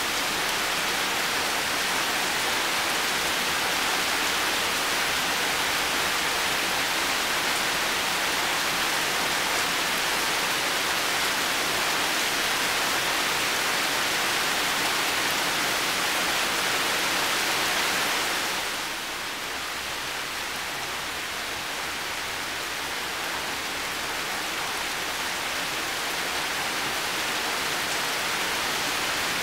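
Heavy rain falling steadily. About two-thirds of the way through it softens and dulls, then slowly builds back up.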